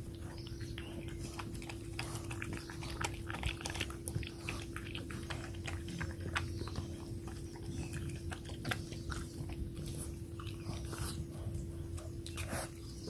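English bulldog puppy eating from its bowl: a steady run of small, irregular chewing crunches and clicks.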